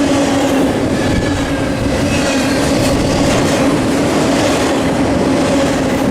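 Double-stack container freight train rolling past close by: a loud, steady rumble of steel wheels on rail, with a steady hum underneath.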